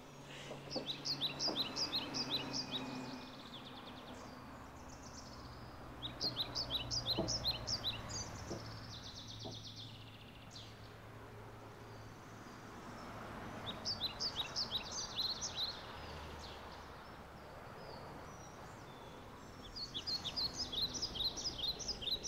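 A small songbird singing in four short bursts of quick, high chirping trills, a few seconds apart. A few faint clicks and knocks come in between, over a faint steady hum.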